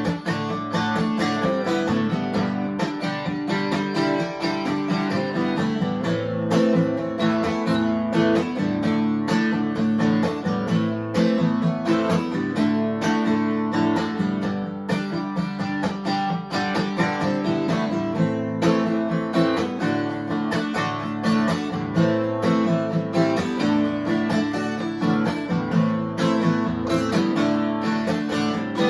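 Instrumental acoustic guitar music, plucked and strummed at an even pace, running steadily throughout.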